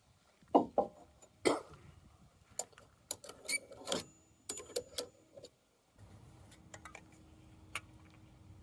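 A run of sharp knocks and clatters, like objects being handled, then a steady low hum with a faint held tone and an occasional tick, starting after a brief break about six seconds in.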